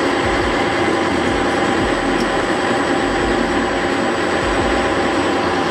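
Metal lathe running steadily, a constant mechanical noise with a faint steady whine.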